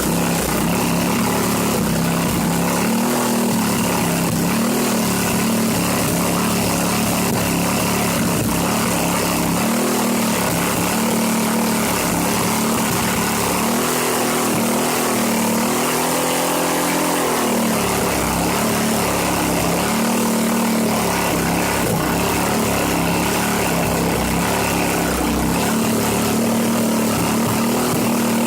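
Briggs & Stratton 3.5 hp single-cylinder engine running unevenly, its speed dipping and recovering several times. It is an engine that misses a lot and is getting tired, with ATF and WD-40 in its oil.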